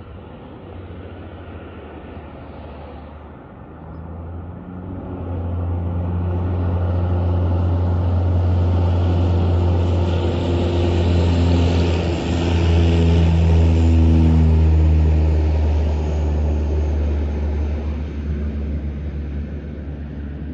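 Aircraft engine noise building as the aircraft comes close, a low steady drone with a hum of engine tones over it. It is loudest around the middle and eases off toward the end.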